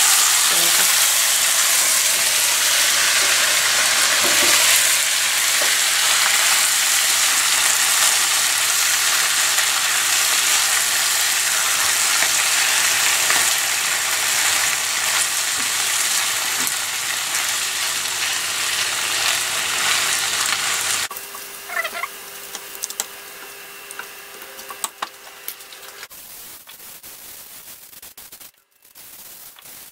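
Chicken livers, onion and carrot sizzling in a frying pan while being stirred with a silicone spatula. About 21 seconds in the sizzle cuts off sharply, leaving quieter clicks and scrapes, and near the end aluminium foil is handled as it is pressed over the pan.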